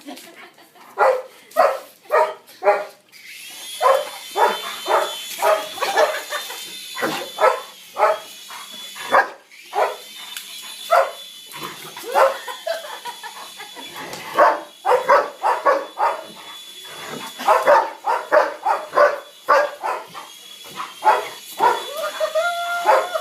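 German Shepherd barking over and over. Under the barks, a toy RC helicopter's small electric motor whines, spinning up about three seconds in, cutting out and spinning up again several times.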